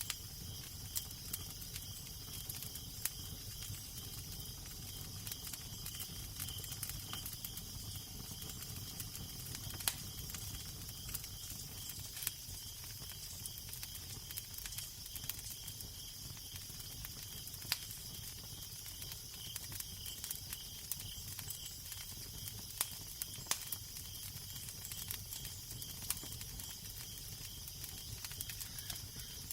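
Crackling fire: a steady hiss with irregular sharp pops and snaps scattered throughout, over a low, steady rumble of wind.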